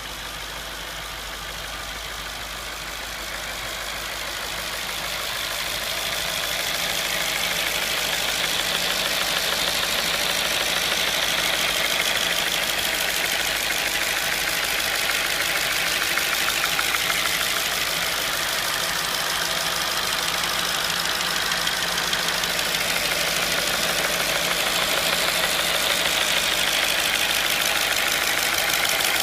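Audi S4's 4.2-litre V8 idling steadily, with a fast, even clicking or rattling over the engine sound, growing louder over the first few seconds. The owner suspects the clicking comes from the intake manifold flap.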